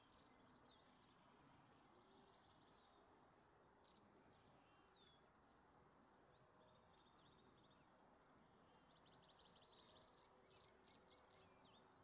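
Western bluebird calling: faint, high chirps and short down-slurred notes, breaking into a quicker run of chirps about nine seconds in, over a soft steady outdoor hiss.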